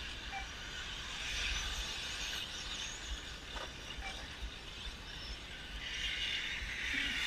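Electric 1/10-scale short course RC trucks racing on a dirt track: a hiss of brushless motors, gears and tyres that swells twice as the pack passes, with wind rumble on the microphone.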